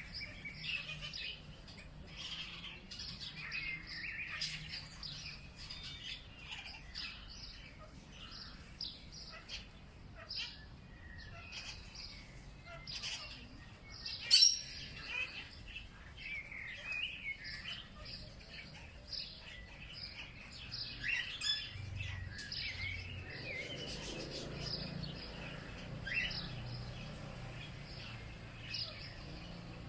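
Several birds chirping and calling in a continuous chorus of short, overlapping notes, with one louder sharp call about halfway through.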